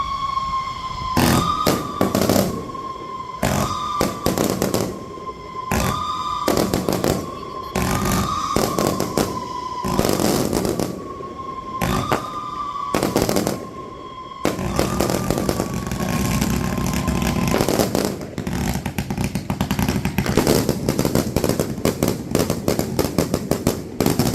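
Aerial firework shells bursting one after another in sharp bangs, while a siren holds a wailing tone that rises and falls about every two seconds. About fifteen seconds in the siren fades and the bursts come thick and fast with crackling.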